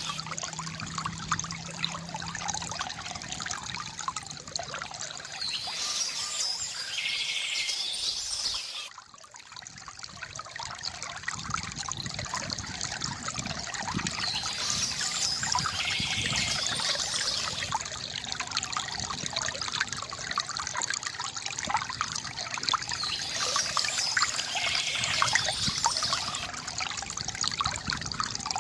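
Water trickling and splashing steadily from a bamboo fountain, with bursts of bird chirping every several seconds. The water sound drops briefly about a third of the way through, then swells back.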